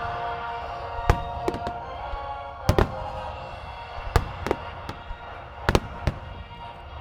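Aerial fireworks shells bursting in a grand finale, about eight sharp reports at irregular intervals, some in quick pairs. Music with sustained tones plays underneath.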